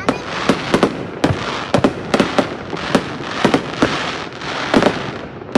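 Fireworks going off in quick, irregular succession: sharp bangs about three a second over a continuous crackle.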